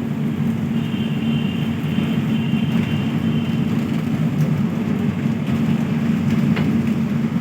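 Passenger train running along the track with a steady low rumble, and a faint high squeal between about one and three seconds in.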